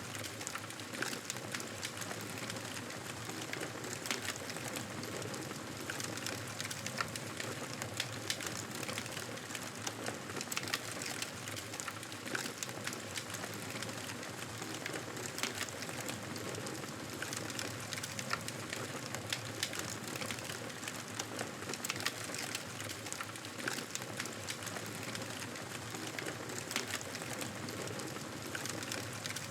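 Wood fire crackling in a fireplace: a steady hiss with frequent small crackles and a few louder pops scattered throughout.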